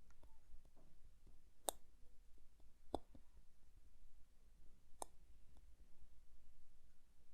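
Small metal clicks of watchmaker's tools and parts during reassembly of a watch movement: three sharper clicks a second or two apart among fainter ticks.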